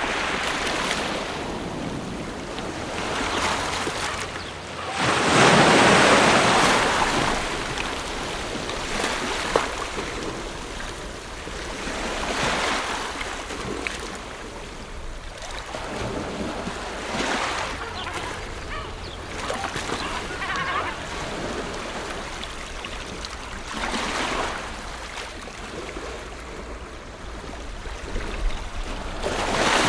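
Ocean waves breaking and washing on a shore, in irregular surges, the largest about five seconds in.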